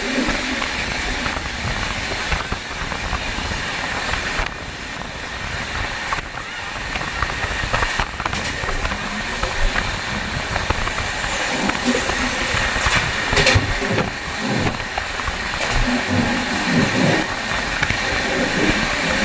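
Running noise of a moving passenger train heard from inside a carriage: a steady rumble and rattle, with voices in the later part.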